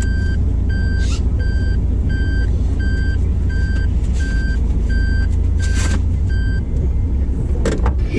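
Vehicle reversing warning beeping about every 0.7 seconds over a loud low engine rumble; the beeps stop about six and a half seconds in, and there are a few brief knocks.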